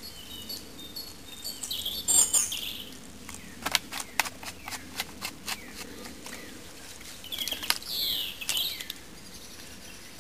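Wild birds chirping, with a burst of high falling calls about two seconds in and another near eight seconds. Between them comes a quick run of about ten sharp clicks.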